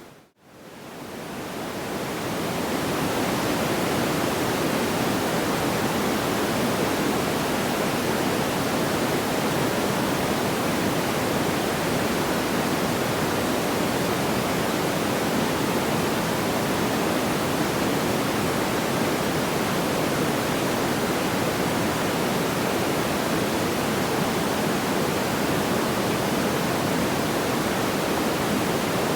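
Steady, even rushing noise without crackles or pops, like pink noise or a distant waterfall. It drops out briefly just after the start and fades back in over a few seconds.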